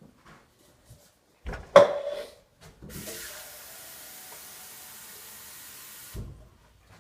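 A sharp knock, then water running steadily into a glass for about three seconds before it stops abruptly, followed by a soft low thud.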